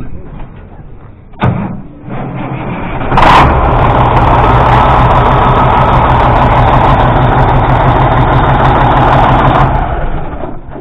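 A sharp knock, then a semi tractor's diesel engine turns over and catches about three seconds in, running loud and steady for several seconds before dropping away near the end.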